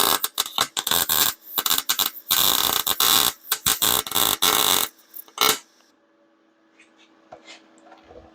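Wire-feed welder arc crackling and sputtering in a series of short bursts on thin steel bed-frame tubing, stopping about five and a half seconds in and leaving a low steady hum. The thin metal is burning through rather than fusing to the thicker frame.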